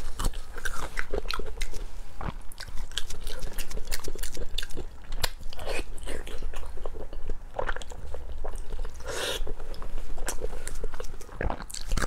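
Close-miked wet chewing and lip smacking as a person eats soft braised pork with its skin on, made up of many quick sticky clicks.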